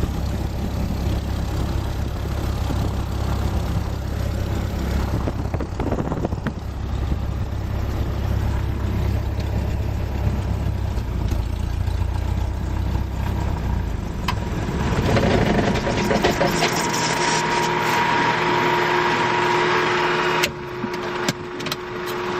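The Cessna 172S's four-cylinder Lycoming engine running at low power, a steady low drone heard inside the cockpit. About two-thirds of the way through the drone stops and a louder hiss with a steady whine takes over, which cuts off near the end with a few sharp clicks.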